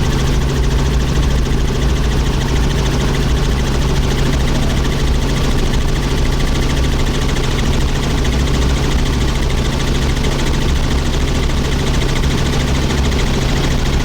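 Helicopter rotor and turbine noise heard from on board in flight: a steady, loud drone with a low hum that stays even throughout.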